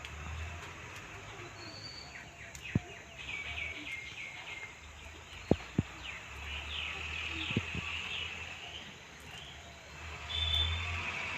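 Outdoor garden ambience: birds chirping in quick runs of short notes over a low rumble, with four sharp clicks during the middle of it.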